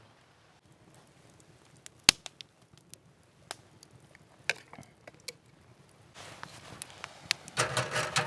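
Scattered sharp knocks and clacks of hard objects being handled, the loudest a single knock about two seconds in, with a denser rustling clatter building near the end.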